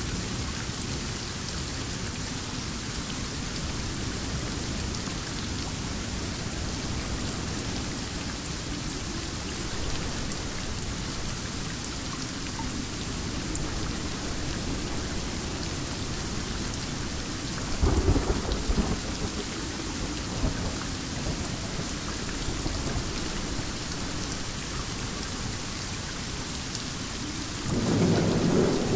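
Heavy thunderstorm rain falling steadily, with low rumbling thunder under it. Two louder thunderclaps stand out, one about two-thirds of the way through and one near the end.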